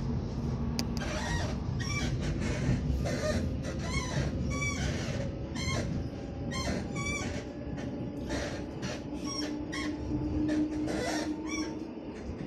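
Commuter electric train running, heard from inside the passenger car: a steady low rumble with repeated short high-pitched squeals and clatters from the wheels on the rails, and a brief steady hum about ten seconds in.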